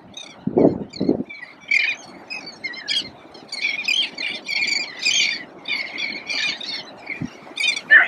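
A flock of seabirds, taken for seagulls, calling over and over with many overlapping squawks. Two low thumps come near the start.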